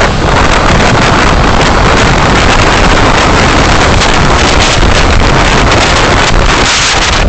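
Loud, steady road and wind noise from a moving car, picked up by a dashcam microphone, with many small crackles through it.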